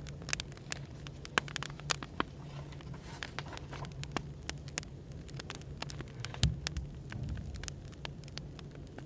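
Wood fire crackling, with irregular sharp pops and snaps over a steady low hum of café background noise. A heavier low thump comes about six and a half seconds in.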